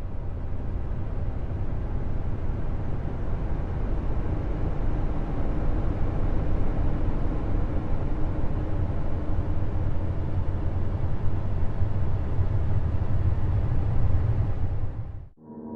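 A space "planet sound": a steady, deep rumbling noise with a faint tone running through it, cutting off abruptly near the end.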